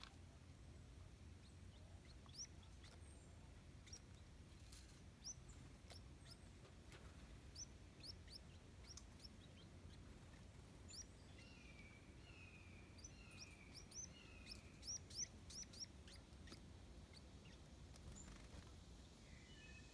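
Faint, high-pitched bird chirps: short rising peeps scattered throughout, bunching into a quicker run about three-quarters of the way in. A short series of four lower, falling notes comes just before that run.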